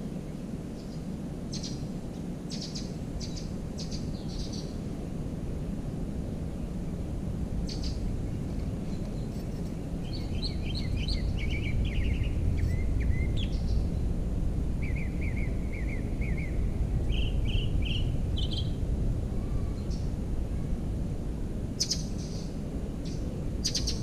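Wild songbirds chirping and calling: scattered short high chirps early and again near the end, and around the middle a quick run of notes sliding down in pitch followed by a second run of repeated notes. Under them runs a steady low outdoor rumble.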